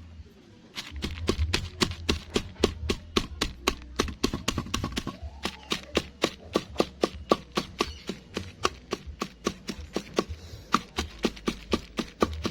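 Bird feed being pounded fine by hand: sharp, even knocks at about three a second, starting about a second in.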